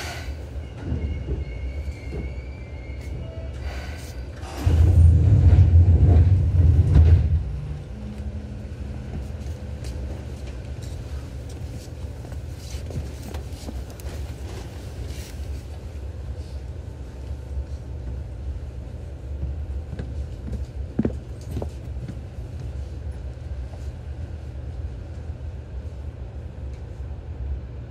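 Seibu New 2000 series electric train running, heard inside the car above the line breaker: a steady low rumble of wheels and running gear, much louder for about three seconds around five seconds in, with a few sharp clicks later on.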